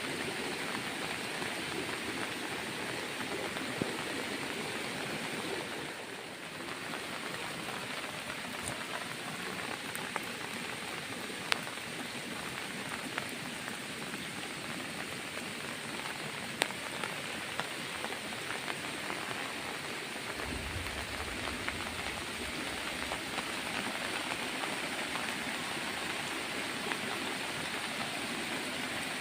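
Steady rain falling on a garden, an even hiss with a few sharp single drip ticks close to the microphone.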